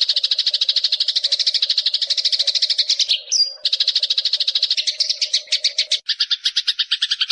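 Eurasian tree sparrow (burung gereja) chirping in a fast, unbroken chatter of about a dozen chirps a second. A little before halfway there is a brief break with a single sliding higher note, and there is a short pause about six seconds in.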